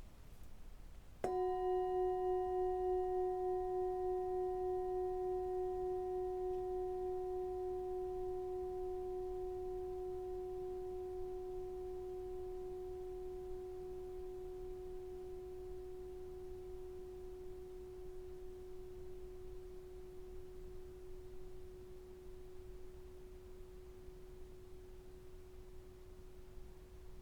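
A sound-healing instrument struck once, about a second in, ringing one clear tone with fainter higher overtones. It wavers slightly at first, then fades slowly and is still sounding at the end.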